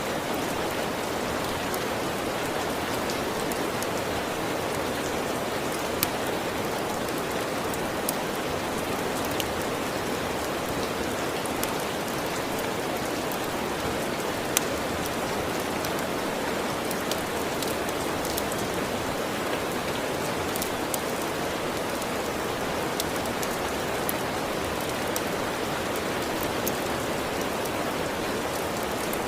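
Steady rain, an even hiss with sharp little clicks scattered through it, two of them louder, about six and fourteen seconds in.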